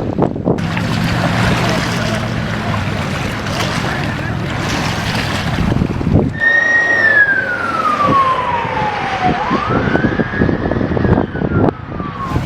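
A rushing noise with a low steady hum, then, from about halfway, an emergency-vehicle siren wailing: one long falling glide, a quick rise, and a slow fall again.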